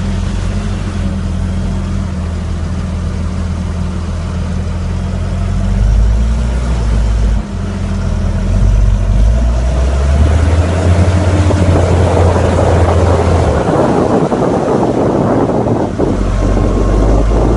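Fendt 720 tractor's diesel engine running without its exhaust, loud and raw. The engine speed rises about six seconds in, and the sound gets louder and rougher again from about ten to twelve seconds on.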